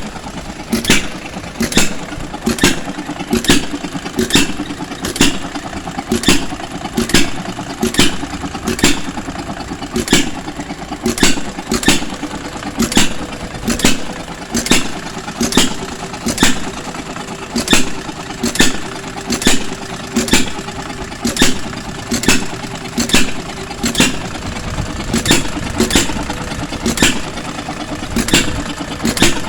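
Hit-and-miss stationary engine running under the load of an ice cream freezer, firing with a sharp pop about once a second, with steady mechanical clatter between the firings.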